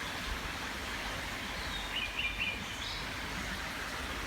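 A songbird calls a short phrase of a few high chirps about two seconds in, over a steady outdoor rushing noise.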